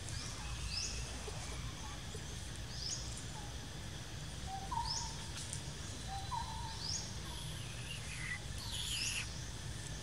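Forest birds calling: one bird repeats a short, high, rising note every couple of seconds, with a few lower short calls around the middle and a falling call near the end, over steady outdoor background noise.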